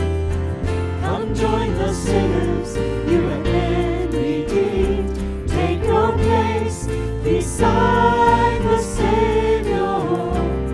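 Praise band performing a worship song: voices singing over a band with a steady bass line and drum beat.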